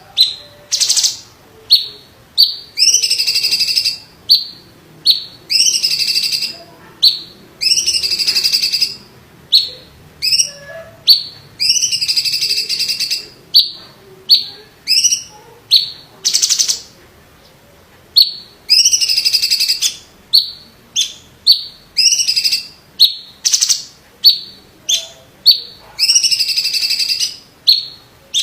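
Blue-winged leafbird (cucak cungkok) singing a loud, fast string of harsh, rattling phrases high in pitch, each under a second long, with short gaps between them.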